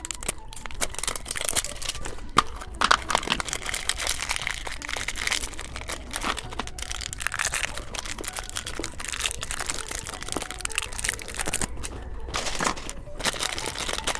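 Plastic packaging of an Ultraman surprise egg crinkling as it is handled and torn open by hand, with scattered sharp clicks and cracks throughout.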